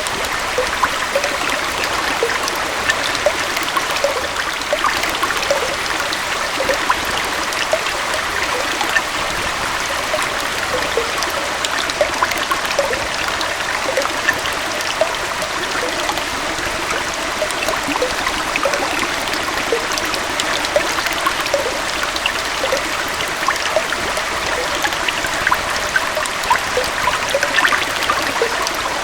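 A small waterfall and stream flowing steadily, a constant rush of water with many little splashes and gurgles throughout.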